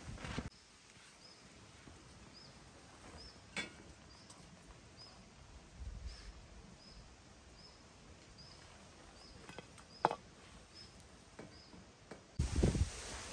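Faint outdoor ambience with a small bird chirping over and over, about two short high chirps a second. A few sharp clinks come from a utensil against a stainless pan. Near the end, louder handling noise starts.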